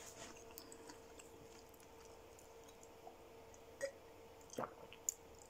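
Faint chewing of a mouthful of chicken quesadilla, with a few short soft clicks in the second half over a faint steady hum.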